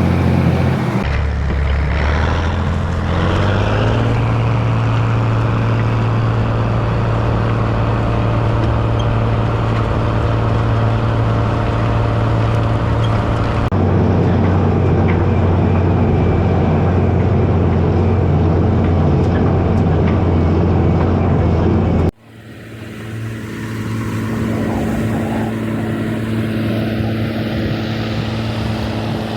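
Rába 250's diesel engine running steadily, its pitch rising over the first few seconds and then holding an even speed. About two-thirds of the way in the sound cuts off sharply and then swells back to a steady run.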